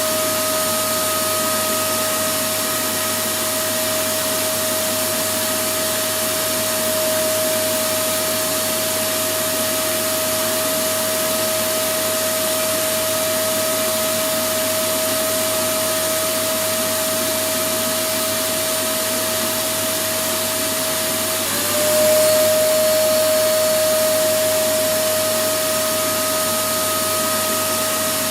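Electric vacuum cleaner running steadily: a constant motor whine over an even rushing hiss. About three quarters of the way through, the whine drops briefly in pitch and the sound gets a little louder, then settles back.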